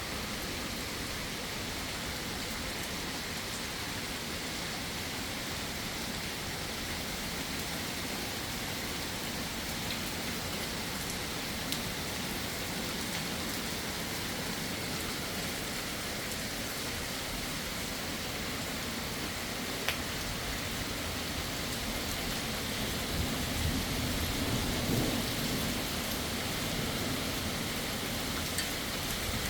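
Heavy rain falling in a steady hiss. About three-quarters of the way through, a low rumble of thunder swells and fades.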